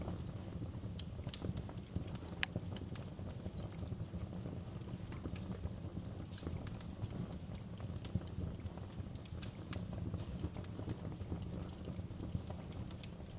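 Wood fire crackling in a fireplace: frequent irregular pops and snaps, one sharper about two and a half seconds in, over a steady low rumble of the burning.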